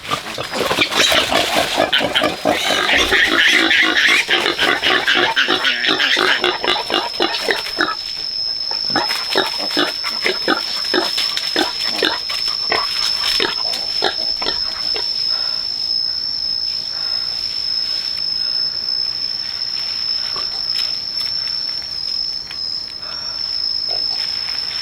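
Pigs grunting and squealing in quick, dense succession, loudest over the first several seconds and then thinning to scattered grunts. A steady high insect trill runs underneath from a few seconds in.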